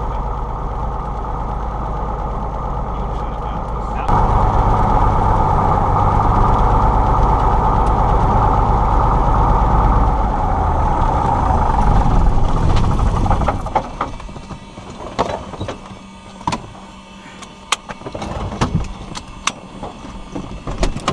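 Cessna 172 engine running, louder from about four seconds in. About two-thirds of the way through the engine sound falls away, leaving scattered clicks and knocks.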